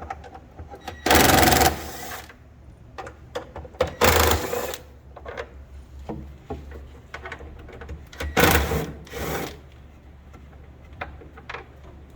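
A power tool spinning out the 8mm bolts of a Polaris RZR's clutch cover in three short bursts of about a second each, with small metallic clicks from the bolts being handled in between.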